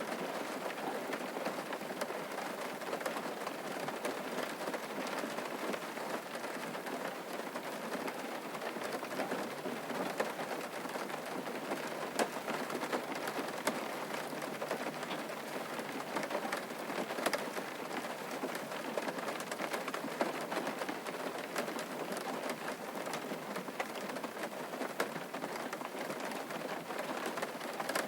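Steady rain falling and pattering on a surface, with many small individual drop taps.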